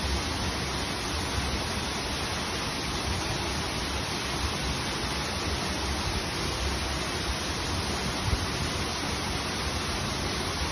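Waterfall, water falling and rushing in a steady, unbroken hiss, with a brief low bump about eight seconds in.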